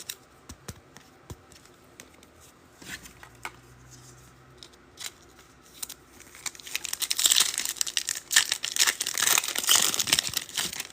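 A few light clicks of cards being handled, then, about six and a half seconds in, several seconds of crinkling and tearing as a foil trading-card pack is ripped open.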